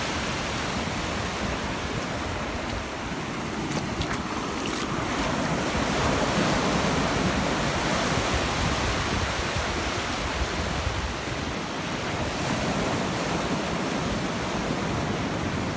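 Ocean surf washing onto a beach, swelling a little in the middle, with wind buffeting the microphone.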